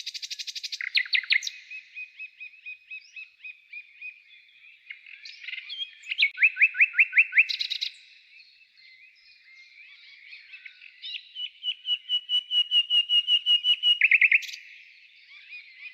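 Songbirds singing, with several rapid trilled phrases of repeated notes, the loudest about 6 seconds in and again from about 12 to 14 seconds in, and softer calls in between.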